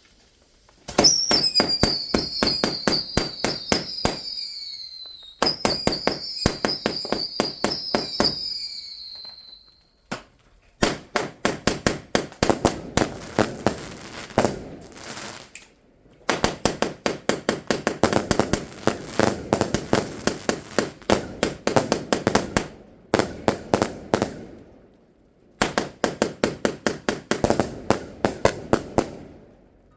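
Fireworks going off in volleys of rapid bangs. In the first two volleys a high whistle falls in pitch. Several longer volleys of quick-fire bangs follow, with brief pauses between them.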